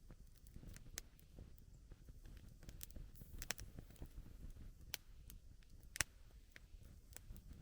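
Wood campfire crackling: irregular sharp snaps and pops, one louder pop about six seconds in, over a faint low rumble.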